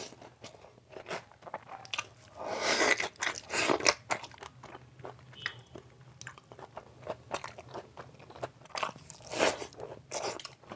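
Close-miked eating sounds of a man chewing rice and curry eaten by hand: many short wet mouth clicks, with louder chewing bursts about three seconds in and again near the end.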